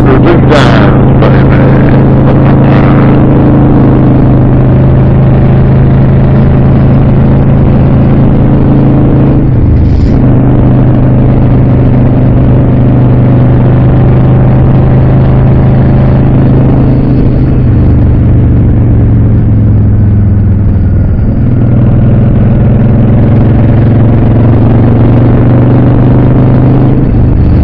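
Honda Shadow VLX 600's V-twin engine running on the road at a steady speed. Its note breaks off briefly about ten seconds in, and later drops lower for a few seconds before coming back up.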